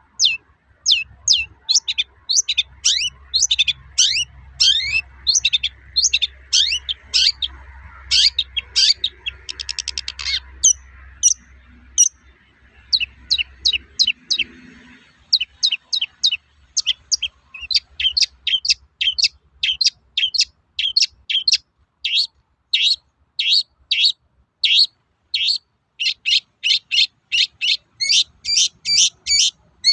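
Long-tailed shrike (cendet) calling its 'toet-toet' song: a long run of short, sharp high notes, about two to three a second, with a fast trill and a brief pause partway through.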